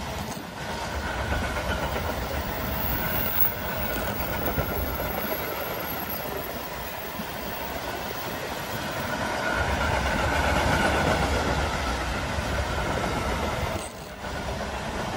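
A train running past on the rails: steady rolling noise of wheels on track, growing louder about two-thirds of the way through.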